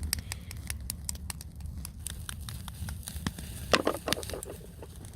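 Wood fire crackling, with many sharp pops and a louder cluster of crackles about four seconds in, over a steady low rumble.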